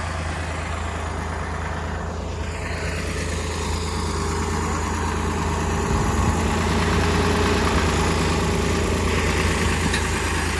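Powertrac Euro 50 tractor's diesel engine running steadily, growing a little louder about four to six seconds in.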